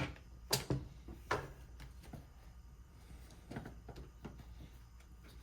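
Light clicks and taps of hammer drill parts being handled and fitted back into the housing during reassembly, with two sharper clicks in the first second and a half and a few softer ones later.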